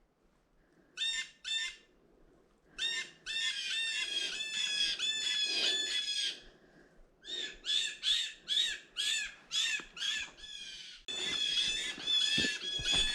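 Birds giving rapid runs of short, harsh alarm calls, several notes a second with brief pauses. The calls mark a predator close by, which is thought to be a weasel.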